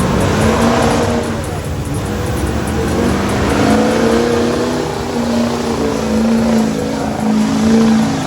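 A large vehicle engine running loud, its pitch rising and falling as it is revved.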